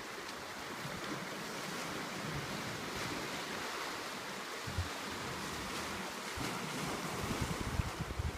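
Sea waves washing onto the shore in a steady, swelling rush, with wind buffeting the microphone, stronger near the end.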